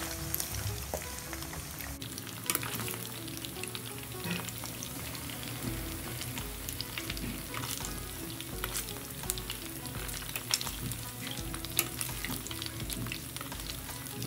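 Food sizzling as it is stir-fried in hot oil, a steady hiss with scattered sharp clicks.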